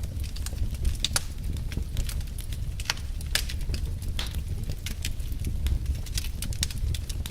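Burning logs in a wood fire crackling, with sharp pops at irregular intervals, several a second, over a steady low rumble.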